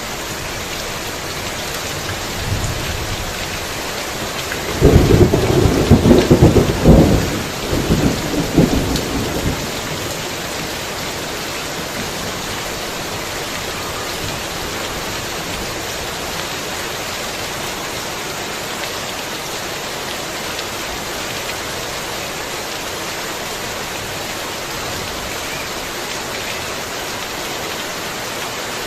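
Heavy rain falling steadily, with a loud thunderclap about five seconds in that rumbles on for a few seconds before dying away into the rain.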